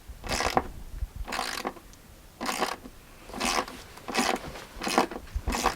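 Rhythmic scraping, a short rasping stroke repeated roughly once a second, seven or eight times.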